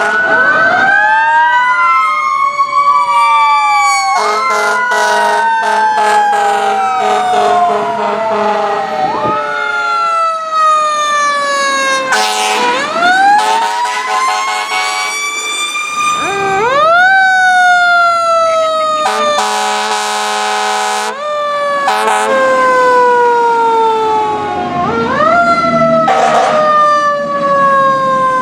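Fire truck sirens wailing, several at once, each rising and then slowly falling in pitch, with air horn blasts cutting in repeatedly. The longest horn blast comes about two-thirds of the way through.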